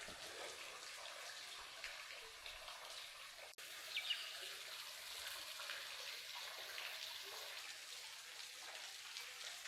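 Faint, steady rush and trickle of a small waterfall, with a bird chirping briefly about four seconds in.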